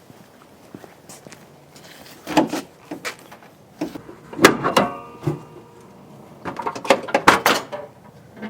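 A few separate clunks and knocks: one about two and a half seconds in, the loudest about four and a half seconds in with a brief metallic ring, then a quick run of clicks and knocks near the end.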